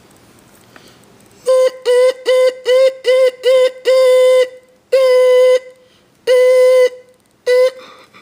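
Car horn sounding one steady tone: six quick taps, then three longer blasts of about half a second each, and a last short tap near the end.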